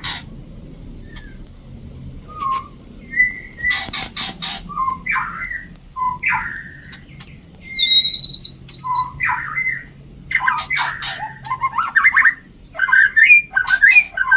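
White-rumped shamas (murai batu) calling in a stretch of varied short chirps and whistles, broken by harsh clicking chatter and one clear whistled note about two-thirds of the way through.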